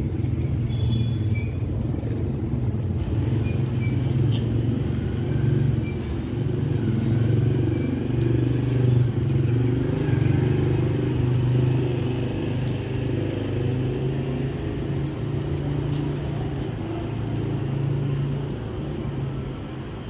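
A steady low rumble of vehicle engines, as of road traffic, swelling and easing gently.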